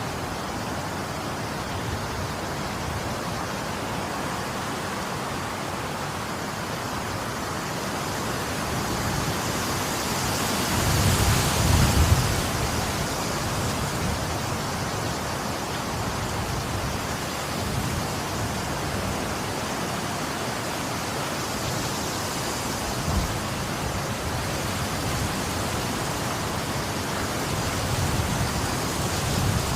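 Steady rain, an even hiss. A low rumble swells about ten seconds in and peaks around twelve seconds.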